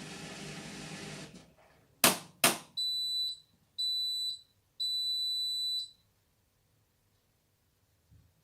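Indesit washing machine finishing its cycle: the drum's running noise dies away in the first second and a half, two loud clicks follow, then three high electronic beeps, the last one longer, signalling the end of the cycle.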